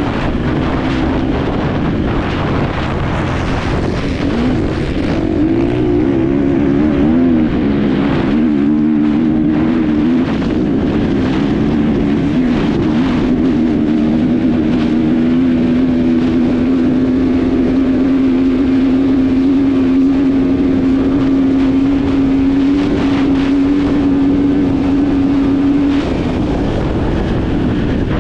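Enduro motorcycle engine heard on board under load, its pitch rising and falling with throttle and gear changes through the first half, then held steady at high revs before easing off a little near the end. Wind buffets the microphone.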